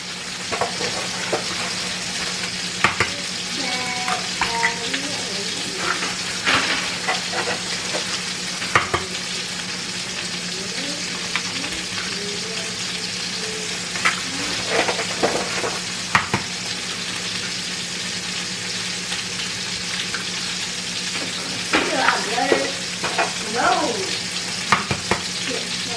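Eggs and sausage patties sizzling steadily in two hot frying pans, with sharp cracks and taps here and there as fresh eggs are cracked open and dropped into the skillet.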